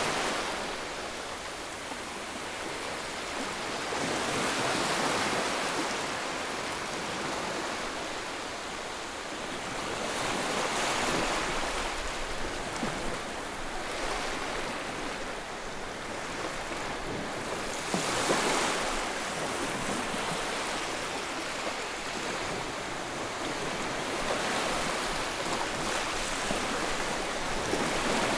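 Ocean waves breaking and washing on a shore, a steady surf hiss that swells every six or seven seconds, with the strongest wave about eighteen seconds in.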